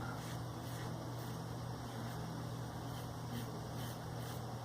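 Faint short scrapes of a Maggard V3 aggressive safety razor with a Shark Super Chrome blade cutting facial stubble, roughly two strokes a second, over a steady low hum.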